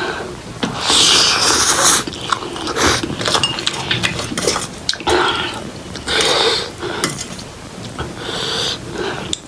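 Close-up eating sounds of instant ramen noodles: several loud, hissing slurps between stretches of chewing and small mouth clicks.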